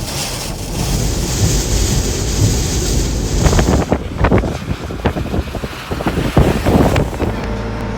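Tropical-storm wind blasting the microphone over the rush of storm-surge water, with a run of hard, sudden gusts from about three and a half to seven seconds in.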